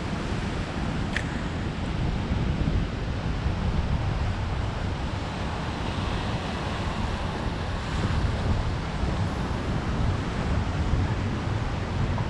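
Wind buffeting the microphone in gusts, over the steady wash of ocean surf breaking below.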